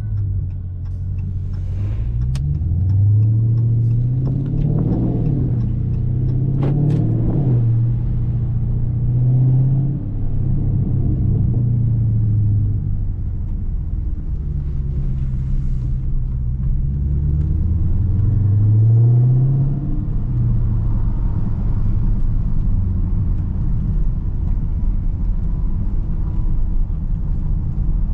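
2019 Dodge Charger Scat Pack's 6.4-litre HEMI V8 driving, a deep exhaust rumble whose pitch climbs under acceleration and drops back a few times, as at gear changes or lifting off.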